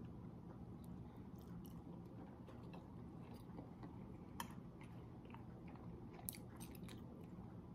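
A person faintly chewing a mouthful of pasta, with scattered small wet clicks and two sharper ones about four and six seconds in, over a low steady hum.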